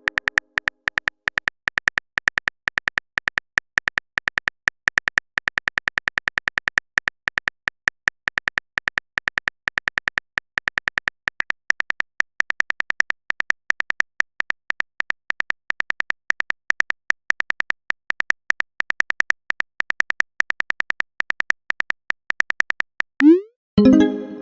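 Message-typing sound effect: a rapid, uneven run of short electronic clicks, each with a high beep in it, with a short rising swoop near the end.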